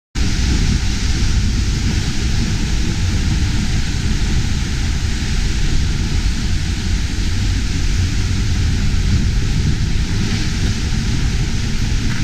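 Seljalandsfoss waterfall's falling water making a loud, steady rushing noise that starts abruptly and holds even throughout.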